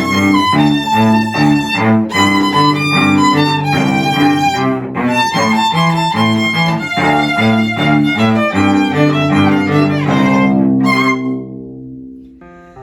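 Violin and cello duet playing a lively festa junina tune with a steady, bouncing rhythm, ending on long held notes that fade away near the end.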